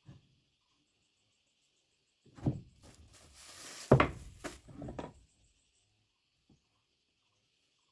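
Several sharp knocks and thuds of wood being handled or tapped together, the loudest about four seconds in, with a brief rasping hiss among them. Insects chirr steadily in the background.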